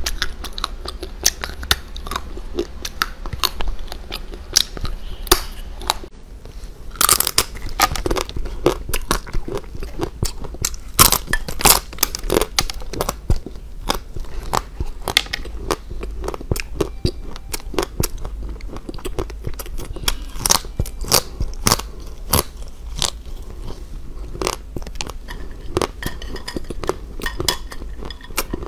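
Close-miked eating of sweets: a steady run of sharp crunching bites and chewing, with a cut about six seconds in from soft sunflower-shaped cakes to brittle spiral-shaped candies.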